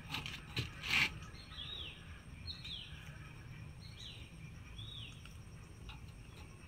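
A bird calling: a series of short, falling chirped notes repeated about once a second. There is a single sharp knock about a second in.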